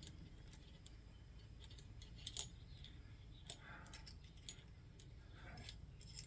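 Faint, scattered light clicks and small metallic taps from handling small tools or parts, over a low steady background hum; one tap about two and a half seconds in is a little louder.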